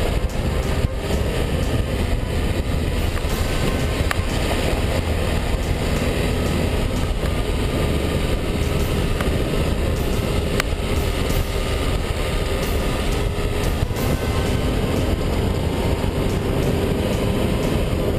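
Dacia Duster 1.5 dCi 4x4 driving: a steady engine hum and road rumble, with scattered clicks and knocks throughout.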